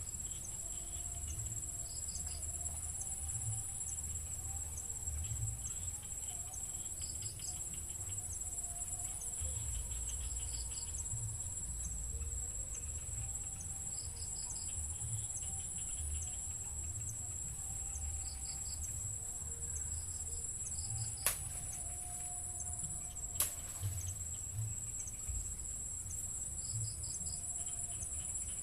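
Insects, cricket-like, keep up a steady high-pitched trill, with short triple chirps recurring every couple of seconds and a low rumble underneath. Two sharp clicks about two seconds apart come past the middle.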